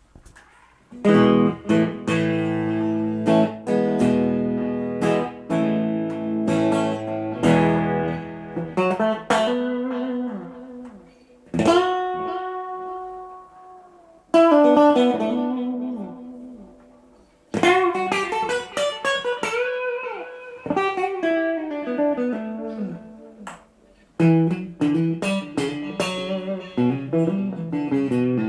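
Guitar being played: repeated strummed chords, then single ringing notes with string bends, then chords again near the end.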